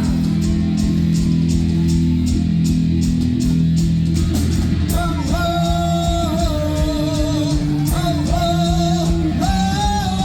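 Heavy metal band playing live: electric guitar, bass and drums, with a high sung vocal line coming in about halfway through.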